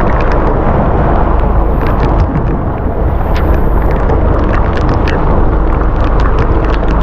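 Storm-force wind blasting over the microphone in a loud, continuous rumble, with rain spattering on the camera as many quick ticks.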